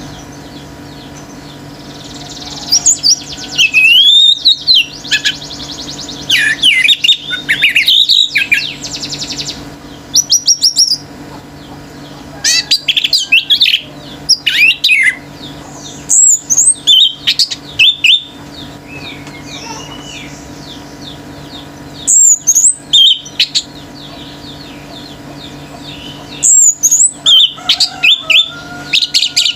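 Orange-headed thrush (anis merah) in full, intense song: loud bursts of fast, varied whistled and chattering phrases with short pauses between them. A steady low hum runs underneath.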